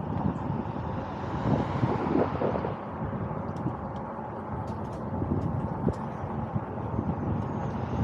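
Wind blowing over the microphone during a fat-tyre e-bike ride, a steady low rumble that swells and eases with the gusts.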